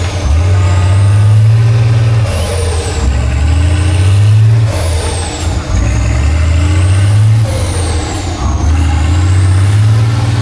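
Heavy off-road trial truck engine pulling hard in repeated surges, roughly every two and a half seconds, each with a high turbo whistle that climbs as the engine loads up and drops away when the throttle eases.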